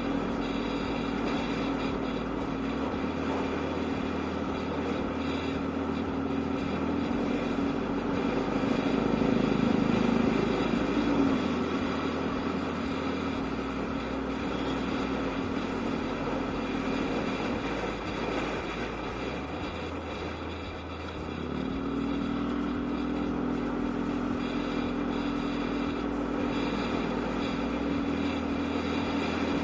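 Yamaha Aerox scooter's single-cylinder engine running while riding, with road noise. It gets louder about ten seconds in, drops away near twenty seconds, then picks up again.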